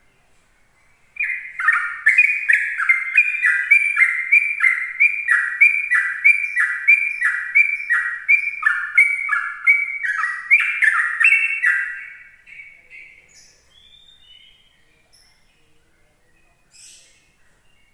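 Yellow-vented bulbul (trucukan) singing a long, fast run of repeated down-slurred notes, about two a second, for some ten seconds. The run then fades to a few faint calls.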